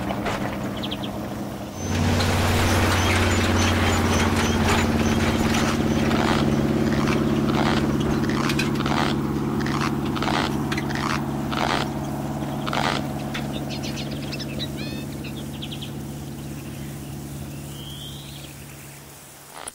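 Small truck's engine coming in strongly about two seconds in as it pulls away, then running steadily and fading slowly as it drives off, with crunches of gravel under its tyres. A few bird chirps near the end.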